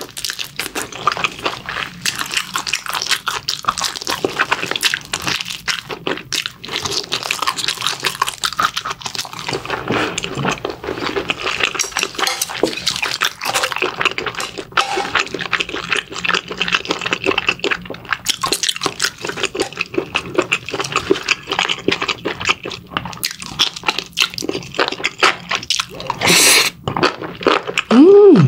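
Close-miked eating: wet chewing, smacking and sucking in a dense run of small clicks as mala-sauced pig's trotters are eaten. A short rising hum comes near the end.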